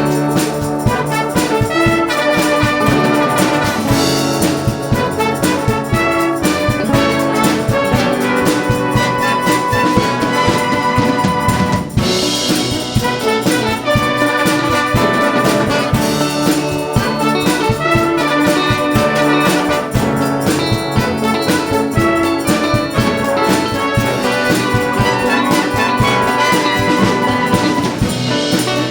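Brass band playing an instrumental passage, trumpets and trombones carrying the tune, with a very short break about twelve seconds in.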